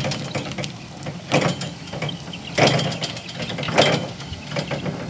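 Yale NR040 electric forklift at work: a steady low hum with repeated mechanical clicks and clanks, and three louder rattling clatters about a second apart.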